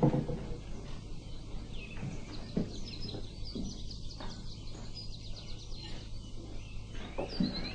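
Small birds chirping in quick, short, repeated high chirps, starting a couple of seconds in, over a steady low hum, with a few faint soft knocks.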